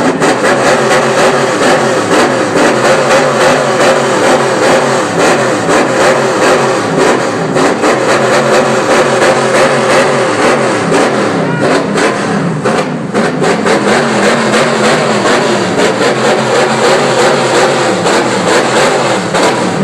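NASCAR stock car's V8 engine running loud, revved up and down over and over so that its pitch keeps rising and falling.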